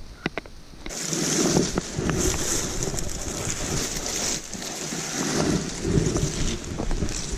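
Gusty wind buffeting the microphone, with rain, starting suddenly about a second in and rising and falling in uneven surges.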